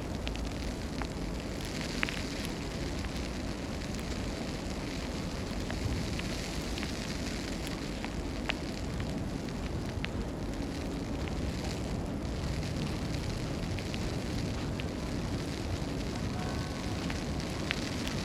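Snowstorm city street ambience: a steady low rumble and hiss with scattered faint ticks and clicks.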